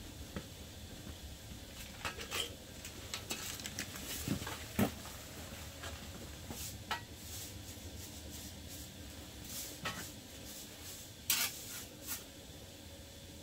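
Metal parts being handled, giving irregular light clinks and knocks, with louder knocks about 2, 5 and 11 seconds in.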